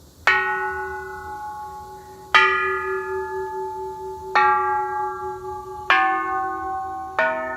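Temple bells struck one after another, five strikes about every one and a half to two seconds, each ringing on. The pitch differs from bell to bell, and the last strike is lower, played as a run of notes.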